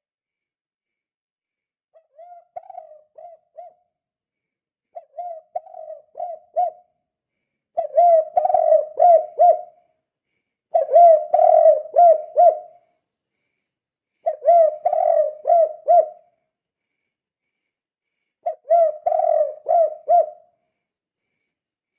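Spotted dove (tekukur) cooing in the 'kuk 2' song style: six repeated phrases of several quick coos each, a few seconds apart, the first two softer than the rest.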